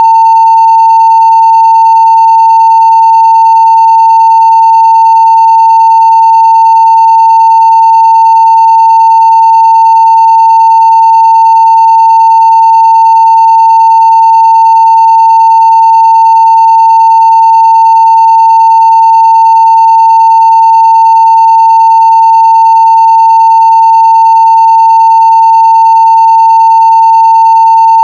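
Continuous 900 Hz sine-wave test tone at full-scale level (0 dB): one steady, unchanging pitch with very faint higher overtones.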